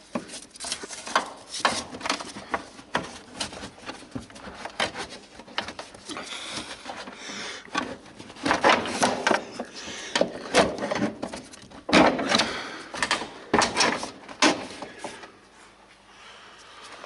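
Handbrake cable and hand tools being worked under a car: irregular scraping, rubbing and knocking of metal parts, busiest in two louder stretches in the middle and easing off near the end.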